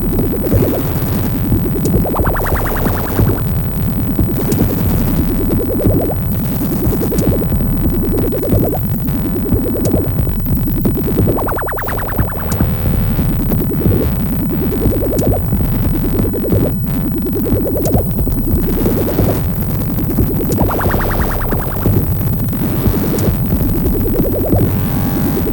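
Electronic music played on hardware synthesizers: a repeating synth pattern that brightens with a rising filter sweep on each note, about three notes every two seconds, over a steady low beat. About every nine seconds a bigger, brighter sweep rises above it.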